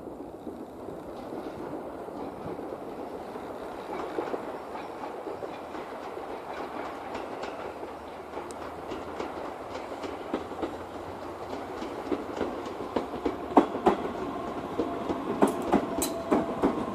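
A train approaching and growing louder, its wheels clacking over rail joints more and more often toward the end, with a brief squeal near the end.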